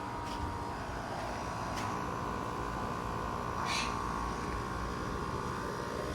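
Rheem Value Series 2.5-ton central air conditioner condensing unit running with a steady hum and a steady tone. A bird gives two short calls, about 2 and 4 seconds in.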